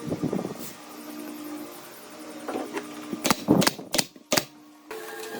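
A quick run of sharp knocks and clicks about three seconds in, over a steady humming tone.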